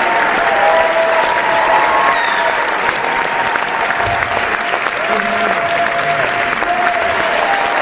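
A large crowd applauding steadily, dense continuous clapping. Held, wavering tones sit above the clapping throughout.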